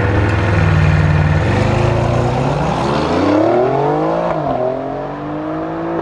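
The twin-turbo 2.9 V6 of an Alfa Romeo Giulia Quadrifoglio with a Ragazzon exhaust and the engine of an Audi RS6 Avant, held at steady revs on the drag-strip start line and then launching and accelerating away. Engine pitch rises through the gears, with an upshift about four seconds in and another near the end.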